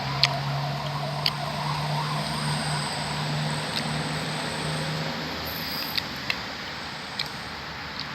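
A motor vehicle passing on the road: a steady engine hum for about five seconds that then fades away. A few light clicks are scattered through it.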